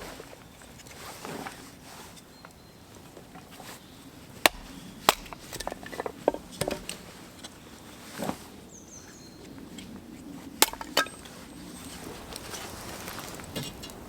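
Scattered sharp knocks and clicks, about half a dozen spread over several seconds, over a low steady background.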